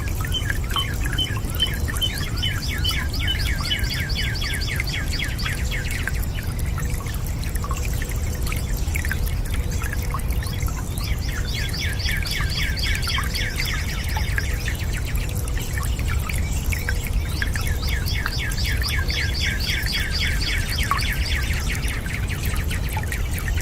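Birds singing in long trills of fast repeated notes, three bouts of several seconds each, over a steady low rushing noise of water.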